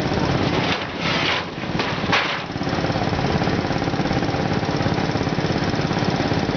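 Garden pulling tractor's small engine running loud with a rapid, rattling exhaust beat, with two short bursts of hissy noise about a second and two seconds in.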